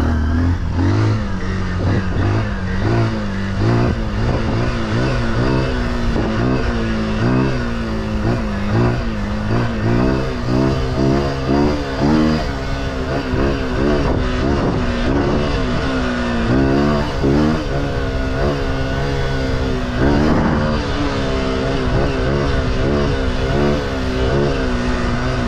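Small off-road vehicle engine being ridden, revving up and dropping back over and over about once a second, then swelling more slowly and settling to a steadier low note near the end.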